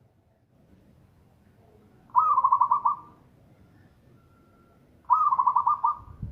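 Zebra dove (perkutut) cooing: two calls, about three seconds apart, each a quick, rippling run of staccato notes lasting about a second.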